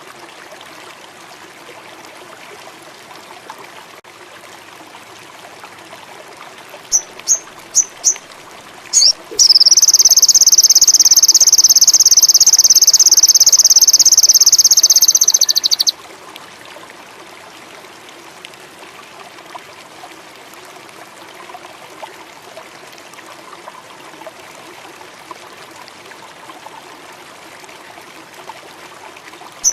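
Indigo flycatcher (sogon) singing: a few short, very high chirps, then a loud high-pitched trill held for about six seconds, over a steady background hiss like running water. Another run of short chirps starts at the very end.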